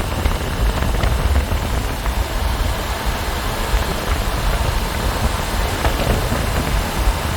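Steady wind rush and road noise from riding a motorcycle, with a heavy, fluctuating rumble of wind buffeting the microphone.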